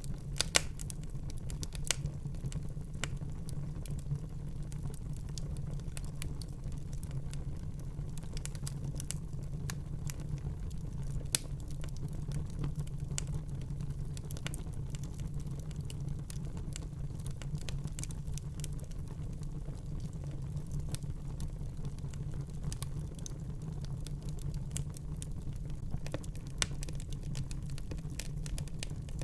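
Wood fire burning in a fireplace, crackling with irregular sharp pops over a steady low rumble of the flames; a few louder pops stand out, about half a second in and near eleven seconds.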